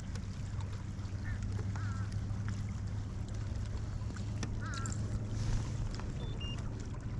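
A steady low hum, with a few faint, short bird calls over it, the clearest about two seconds in and again near five seconds.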